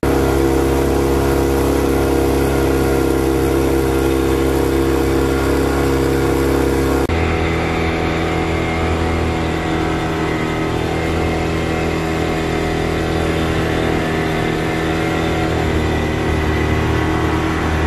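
A motor vehicle's engine running steadily at a constant speed. Its tone shifts abruptly about seven seconds in and then runs steady again.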